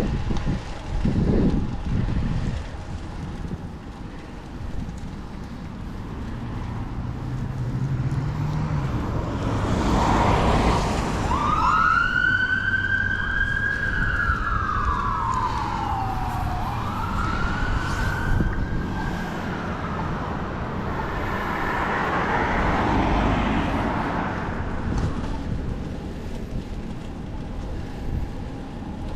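Emergency vehicle siren wailing: one pitched tone that climbs, slides slowly down and climbs again, heard for about eight seconds from a little after ten seconds in. Underneath is a steady rumble of road traffic and wind on the microphone.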